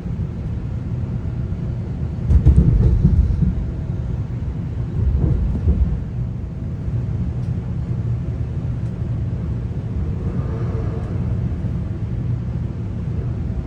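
Interior of a moving GO Transit commuter train coach: a steady low rumble of the train running on the track, swelling into two louder rumbles about two and five seconds in, the first opening with a sharp click.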